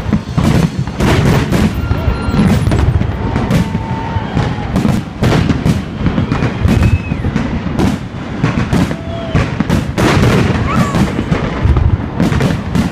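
Fireworks salute going off: a rapid, irregular series of bangs and deep booms from shells bursting, several a second, over a continuous low rumble.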